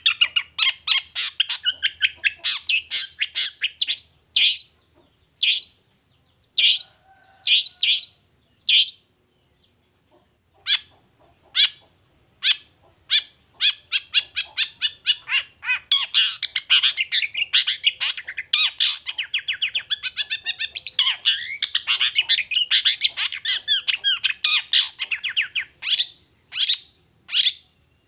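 Long-tailed shrike (cendet) singing: a run of short, sharp notes, sparse with pauses in the first third, then a fast, dense chatter before breaking back into separate notes near the end.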